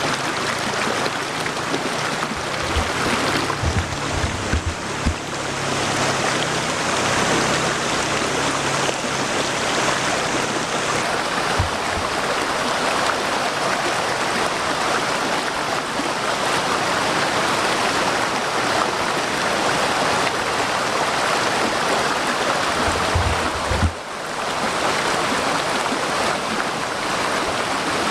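Waterfall flowing between rocks: a continuous rushing and splashing of falling water, with a brief dip in level about three quarters of the way through.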